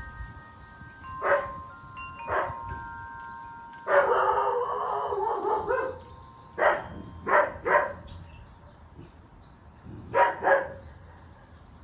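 A dog barking in short, repeated barks, with one longer call lasting about two seconds, about four seconds in. Wind chimes ring with steady, overlapping tones through the first few seconds.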